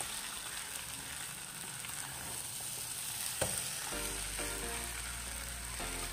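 Mutton and onion masala sizzling as it fries in a nonstick pan, stirred with a wooden spatula, with one sharp tap of the spatula about three and a half seconds in. Soft background music comes in about four seconds in.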